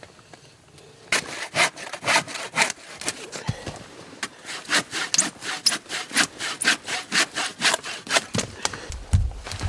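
Hand saw cutting through wood in quick, steady back-and-forth strokes, about three a second, starting about a second in and stopping shortly before the end, followed by a low thud.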